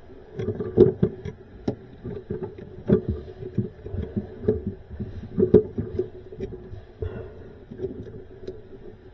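Hands handling small plastic wire connectors and parts: irregular clicks, taps and rustling over a steady low hum.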